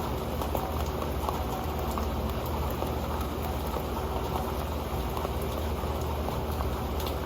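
Steady rain falling on an old pan, a dense, even patter of many small drops.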